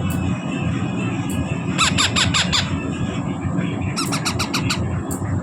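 Baby parrots making rapid strings of short, harsh squawks, the food-begging calls of chicks being hand-fed. There are two bursts of about a second each, over a steady low rumble.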